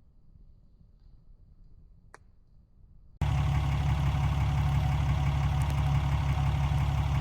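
Very quiet for about three seconds, with one faint click, then a truck engine idling steadily, cutting in abruptly at full level.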